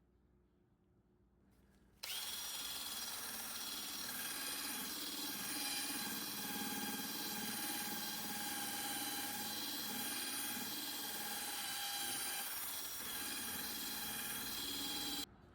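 An electric power tool running steadily at full speed with a high whine, cutting in suddenly about two seconds in and cutting off suddenly near the end.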